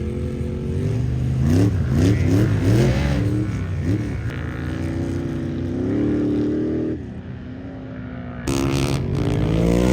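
Sandrail engine revving in several quick blips, then pulling with a steadier, climbing note. It drops away abruptly, comes back just as abruptly, and rises and falls in pitch near the end.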